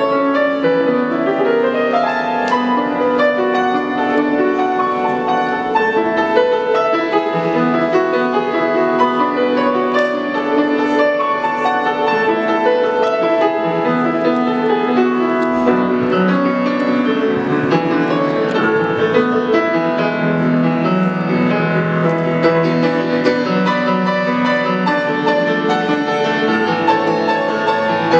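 Piano playing a continuous run of held chords and melody.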